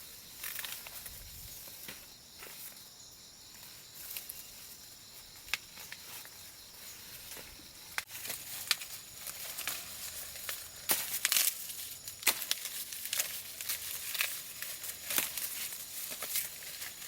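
Dry plant material, leaves or husks, rustling and crackling as it is handled, with irregular sharp snaps that grow denser and louder in the second half.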